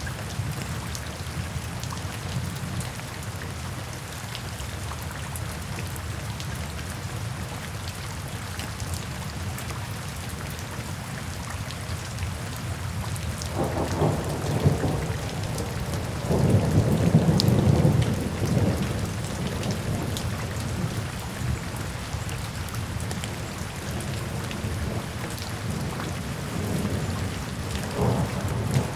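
Steady rain falling, with rolls of thunder rumbling about halfway through, the loudest a few seconds long, and a smaller rumble near the end.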